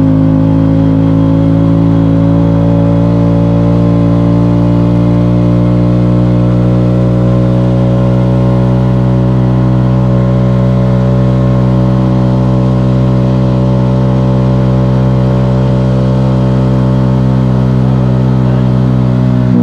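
Motorcycle engine running at a steady, nearly unchanging speed while riding.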